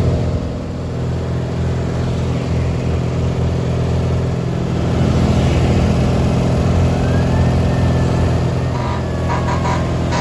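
Garden tractor engine running steadily at a constant speed, with a brief dip in level about half a second in.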